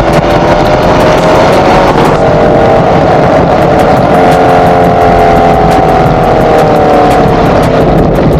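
Chevrolet Camaro SS 1LE's 6.2-litre LT1 V8 pulling under load through a loud exhaust, its pitch holding, climbing a little in the middle and easing down near the end, with road and wind rush underneath.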